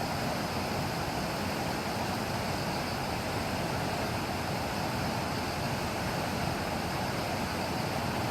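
Heavy typhoon rain falling in a steady, even hiss.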